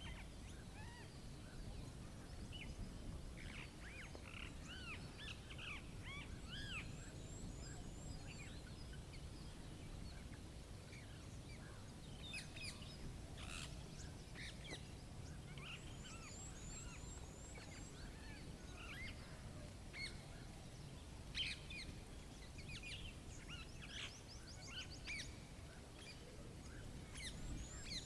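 Several wild birds chirping and calling in a natural soundscape, with short slurred notes and now and then a quick run of high, falling notes, over a steady low background rumble.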